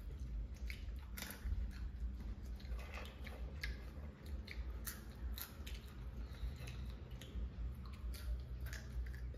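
People chewing popcorn and a raw green chilli, with irregular crisp crunches and small crackles as they bite and chew.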